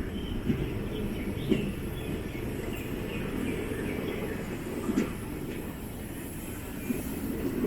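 DEMU train, a diesel multiple unit, heard on board: a steady low rumble with a few scattered knocks.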